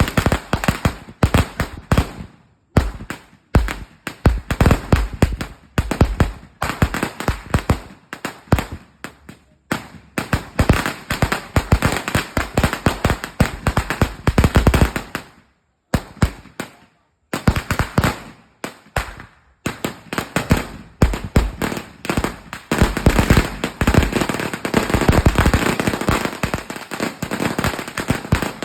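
A 'sawa' firecracker string of about a thousand crackers going off: a dense, rapid rattle of sharp pops, broken by a few brief pauses.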